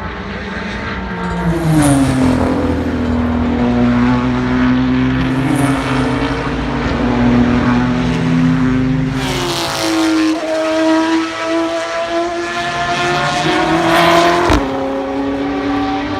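Race car engines running hard past the track, several cars one after another; the engine pitch drops sharply as each goes by, around two seconds in and again near ten seconds. A sharp crack sounds near the end.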